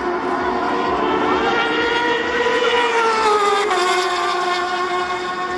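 Superbike racing engine at high revs, its pitch climbing, then easing down with a sudden step lower a little past halfway before holding steady.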